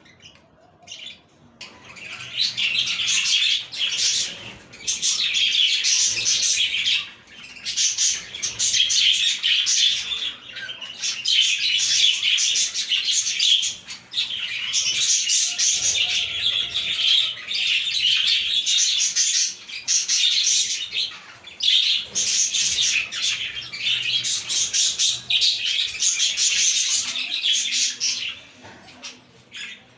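A flock of budgerigars chirping and warbling in a dense, fast chatter. It starts about two seconds in, comes in stretches of a few seconds with brief pauses, and dies down near the end.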